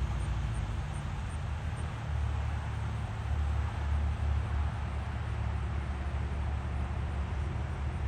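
A car engine running steadily at idle, a low rumble that swells a little midway.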